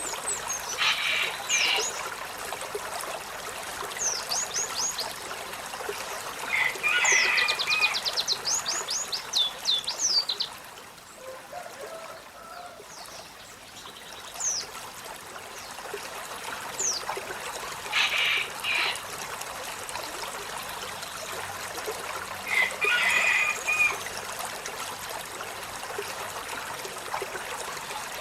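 Olive-backed sunbird calling and singing: high, thin sweeping notes, a fast run of repeated sweeps, and short bursts of chattering calls about every few seconds, over a steady hiss of running water.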